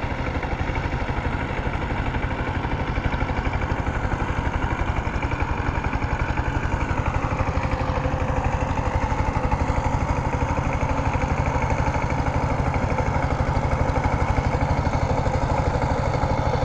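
Power tiller's single-cylinder diesel engine running steadily after starting, with a rapid even pulsing from its firing strokes.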